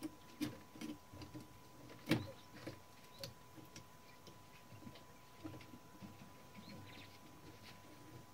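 Irregular light clicks and taps of small metal typewriter parts and tools being handled on a workbench, the sharpest knock about two seconds in.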